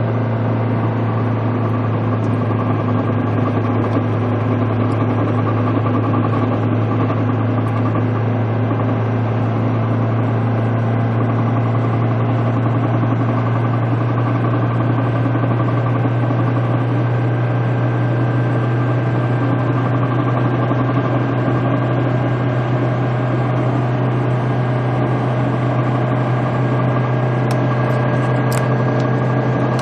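1983 Mercedes-Benz 240D running at steady speed, its four-cylinder diesel and drivetrain making a steady low drone with road noise.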